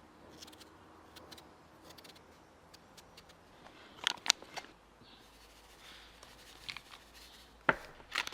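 Kitchen utensils and containers being handled during food preparation: a few sharp clicks and clinks over a faint background, two close together about halfway through and a louder one near the end.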